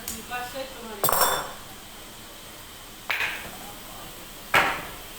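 Three sharp clanking knocks with a short metallic ring, about a second and a half to two seconds apart; the first and the last are the loudest.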